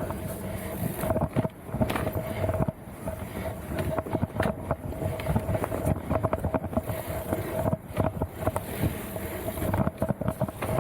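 Mountain bike clattering and rattling over rough technical trail, with many sharp knocks, a steady hum, and wind on the microphone.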